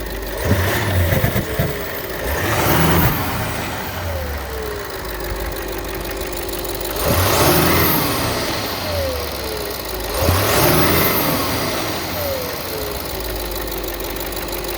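Audi SQ7 engine idling and briefly revved about four times, each rev dropping back to idle. The owner is recording it for an engine knock.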